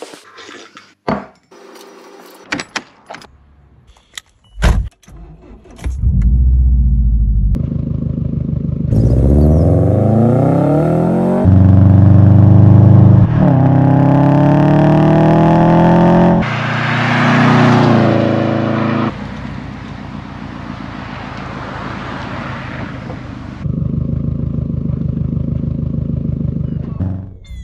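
Subaru Forester STI (SG9) turbocharged EJ25 flat-four engine accelerating in two rising pulls with a gear change between them, then running on at a steadier note. A few sharp clicks and knocks come first, before the engine is heard.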